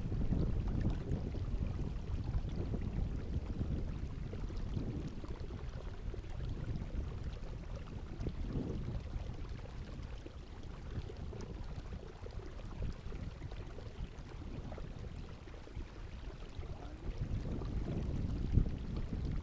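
Low, uneven wind rumble on the microphone with water sounds from a kayak on the water.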